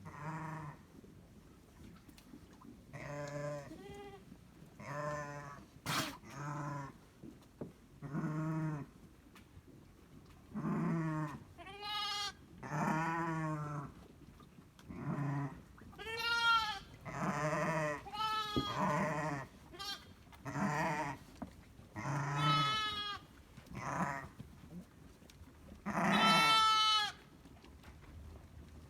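Sheep and lambs bleating, one call after another every second or two, some calls deep and some high-pitched and wavering.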